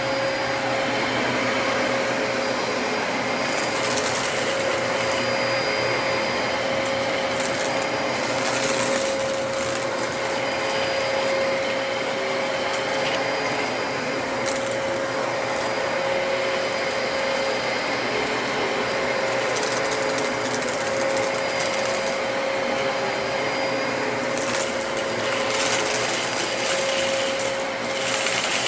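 Dyson DC33 upright vacuum cleaner running steadily, a constant motor whine over the rush of airflow. Brief crackling bursts come every few seconds as debris from the mess test is picked up.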